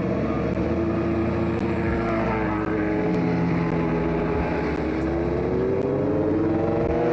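Rally car engine running under load through a timed stage. Its pitch changes with the revs, easing off in the middle and climbing again toward the end.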